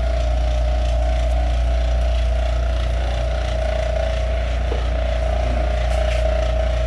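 A machine running steadily: a constant low hum with a steady whine over it and a faint regular pulsing underneath.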